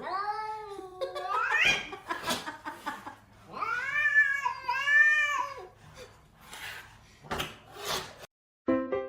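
A cat yowling: one long call that rises sharply at its end, then two drawn-out, arching calls a couple of seconds later, with a few sharp knocks in between. Piano music starts just before the end.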